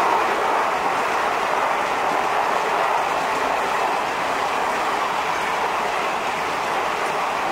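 Blue Indian Railways sleeper-class coaches rolling by on the rails: a steady wheel-on-rail rumble and rattle, easing slightly toward the end.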